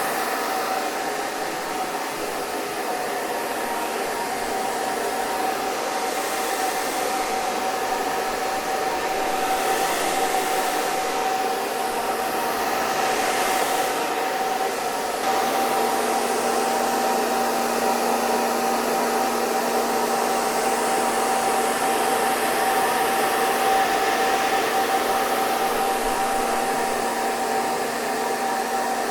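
Hair dryer running steadily: a continuous rush of blown air with a steady motor whine. The lower hum of the motor grows a little stronger about halfway through.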